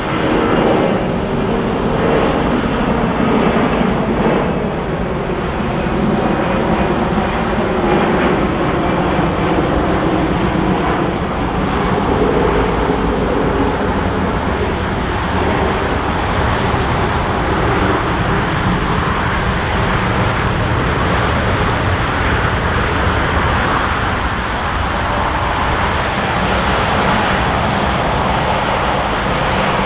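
Jet engines of an Airbus A340-300 airliner running loudly and steadily as it passes close by, with a whine of engine tones in the first few seconds.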